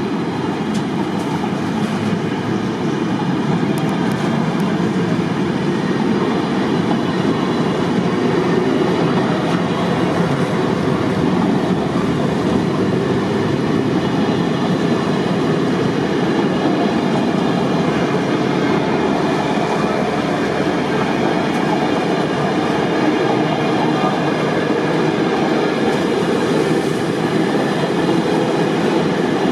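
Train passing through on the rails at speed, its wheels making a loud, steady, unbroken rumble.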